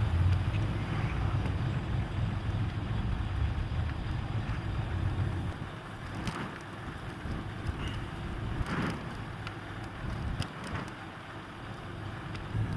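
Car driving along the road: a steady low rumble of engine and tyres that eases off about halfway through, with a few short clicks or knocks.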